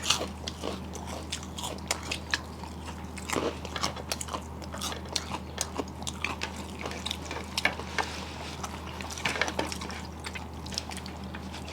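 Close-up crunching and chewing of crisp fried sago papad (papadum), a run of irregular sharp crackles as it is bitten and broken in the mouth.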